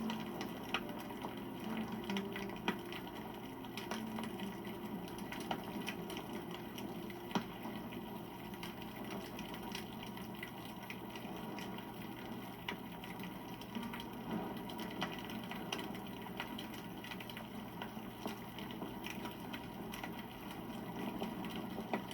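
Wood campfire burning, steady flame noise with irregular crackles and pops of burning wood.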